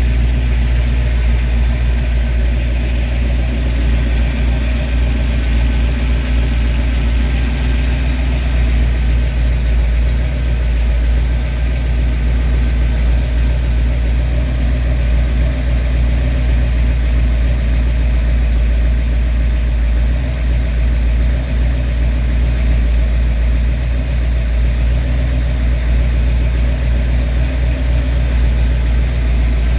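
Carbureted V8 engine idling steadily, with a deep, even note that does not change.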